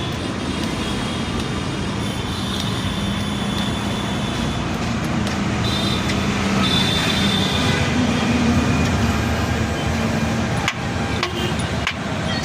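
A motor vehicle's engine running with steady traffic noise, and a sharp knock near the end.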